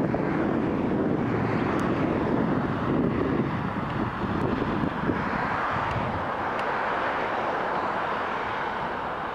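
The General Electric GEnx turbofans of a Boeing 787-8 Dreamliner at takeoff thrust during the takeoff roll: a steady rush of jet noise. A deep rumble is strongest for the first few seconds, then a higher hiss takes over.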